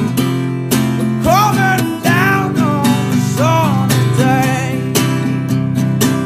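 Acoustic guitar strumming a steady rhythm, with a melody line above it that slides and bends between notes and wavers on a held note about four seconds in.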